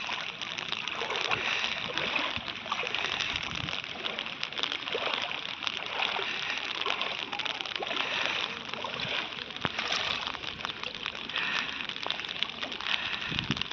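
Floodwater flowing and splashing: a steady dense rush of water full of small splashes.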